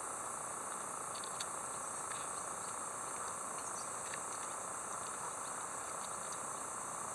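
Steady chorus of insects, a constant high-pitched chirring, with a few faint clicks.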